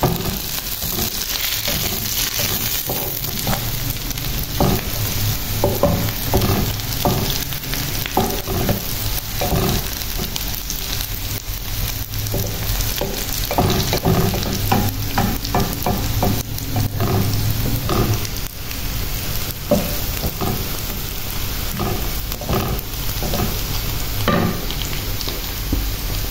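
Sliced onions and green chillies frying in oil in a nonstick pan, sizzling steadily while the onions soften, with a wooden spatula stirring and scraping against the pan in many short strokes.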